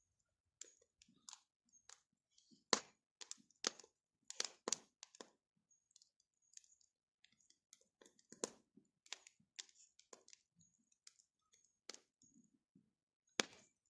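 Wood campfire crackling: irregular sharp pops and snaps, a few louder cracks among many small ticks, the loudest near the end.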